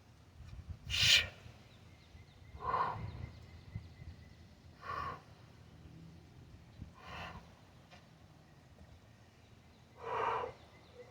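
A man breathing out hard in short bursts, five times about two seconds apart, the first the loudest: the effort of working a heavy kettlebell through clean and presses.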